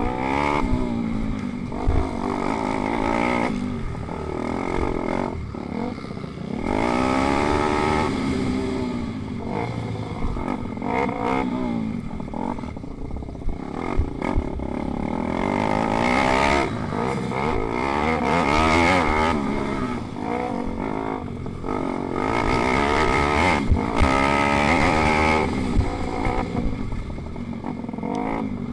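Racing pit bikes' small single-cylinder four-stroke engines revving hard, the pitch climbing and dropping again and again as they go through the gears and back off.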